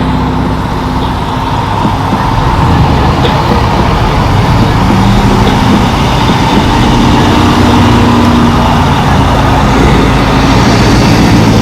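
Car engines running close by: a loud, steady low drone that swells a little toward the end.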